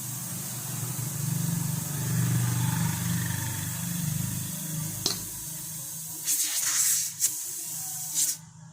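Brazing torch flame hissing steadily with a low roar while refrigeration copper pipe is brazed. A click about five seconds in, a few short louder hiss bursts near the end, then the hiss cuts off suddenly.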